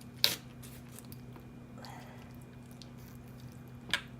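Knife cutting a raw chicken apart, giving two sharp cracks: a loud one just after the start and a quieter one near the end.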